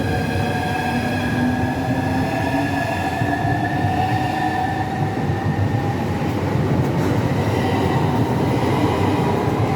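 Southeastern Class 395 high-speed electric train pulling out and accelerating. Its motors give a whine that rises slowly in pitch over the steady rumble of the train.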